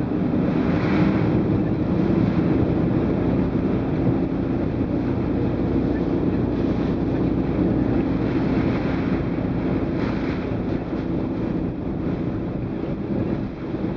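Typhoon wind blowing steadily, swelling in gusts, over a low steady rumble.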